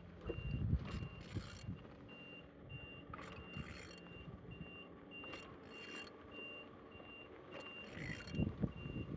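A vehicle reversing alarm beeping steadily, about two high beeps a second, with scattered metallic knocks and thumps as the engine is turned over by hand.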